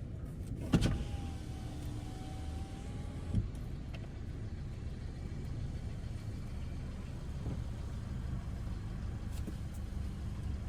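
Car engine idling, heard from inside the car, while a power window winds down for about two and a half seconds, with a sharp click as it starts and a knock as it stops.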